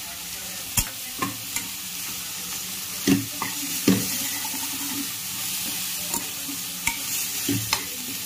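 Mutton and masala sizzling in a kadai as a steel spoon stirs them, with a steady frying hiss and several sharp knocks and scrapes of the spoon against the pan.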